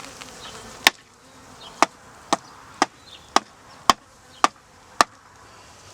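Eight sharp knocks on wood, about two a second, as a beehive part is knocked to shake out earwigs. A faint hum of bees runs underneath.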